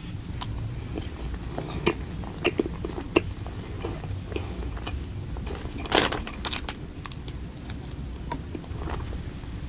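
Close-miked eating sounds: a person biting and chewing food, with short crisp crunches and mouth clicks and one louder crunch about six seconds in.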